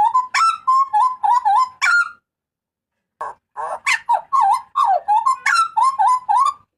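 Hooded butcherbird giving loud, rapid strings of short call notes with bending pitch, about four to five a second. The calls stop for about a second just after two seconds in, then start again.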